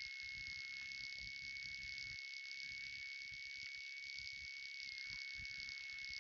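Steady high-pitched whine over a hiss and a faint, uneven low rumble: electrical noise in a Cessna 182's intercom audio feed, with the engine and airflow mostly shut out.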